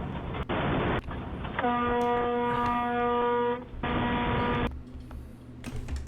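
A vehicle horn held steadily for about two seconds, between loud bursts of road and vehicle noise.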